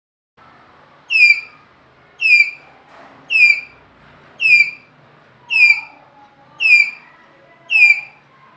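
Tapir squealing: seven short, high-pitched, whistle-like squeals that slide down in pitch, evenly spaced about a second apart.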